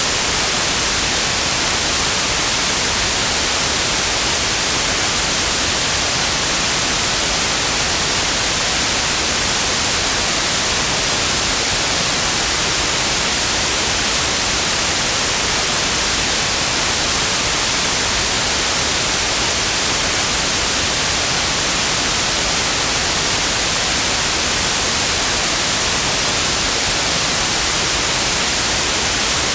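Pure white noise: a steady, even hiss across the whole range, strongest in the highs, unchanging throughout.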